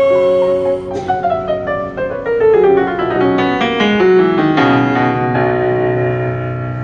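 Piano-sounding keyboard playing an instrumental interlude to a hymn: a held chord, then a descending run of notes from about a second in, settling on a low sustained note near the end.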